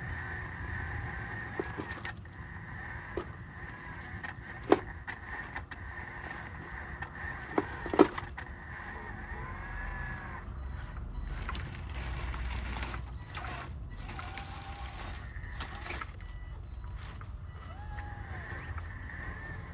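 Radio-controlled model construction machinery working: small electric motors and gearboxes whine, the pitch rising and falling as they move. Sharp clicks and knocks come through, the two loudest about five and eight seconds in.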